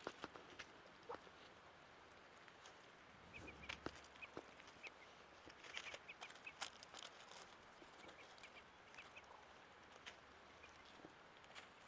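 Muscovy ducklings peeping faintly, short high peeps scattered here and there, among light clicks and taps.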